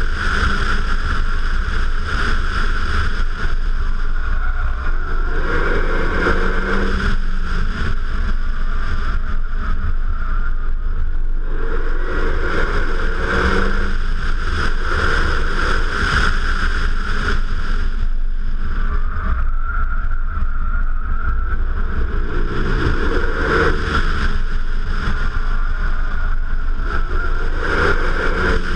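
Wind buffeting a camera mounted on the outside of a Renault Mégane RS 265 Trophy, over the car's turbocharged 2.0-litre four-cylinder engine driven hard. The engine note rises and falls several times as the car accelerates and lifts off.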